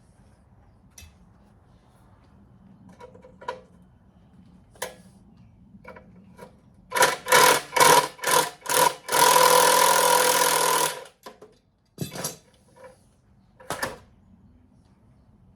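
A power tool undoing the exhaust fasteners on the engine: its trigger is pulsed about five times, then held for a steady two-second run with a motor whine. A few sharp metal clinks of tools come before it and after it.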